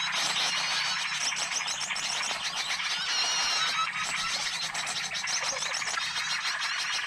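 Dense, overlapping chirping and twittering of many small songbirds, a mixed bird-lure recording, with a clearer drawn-out whistled call about three seconds in and a faint steady low hum underneath.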